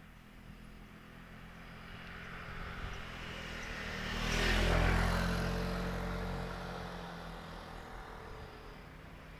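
A passing vehicle: engine and tyre noise swell to a peak about halfway through, then fade, over the steady low hum of the vehicle carrying the microphone.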